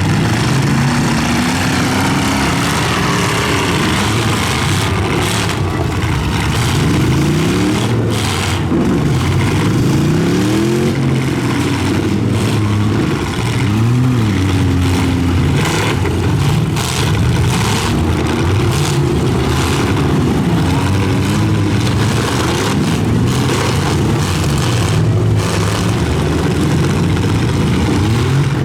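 Several pickup truck engines revving up and down at once in a demolition derby heat, their pitches rising and falling over one another, with sharp knocks of trucks colliding scattered throughout.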